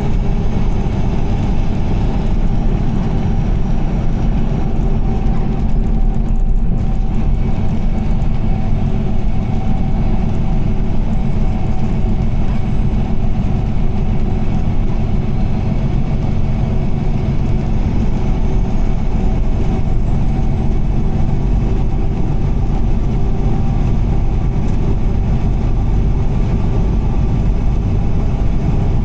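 Car driving on a highway: a steady low rumble of engine and road noise, with a weaker even hiss above it.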